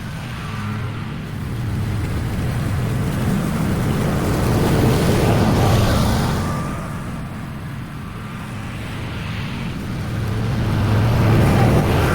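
Petrol lawn mower engine running steadily under load, its sound swelling and fading as it moves nearer and farther away.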